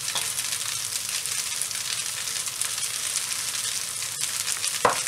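Rice noodles frying in a hot wok, a steady sizzling hiss. A brief sharp knock near the end.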